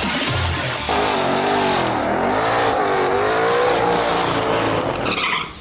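S550 Ford Mustang engine revving hard, its pitch wavering up and down, then cutting off abruptly near the end.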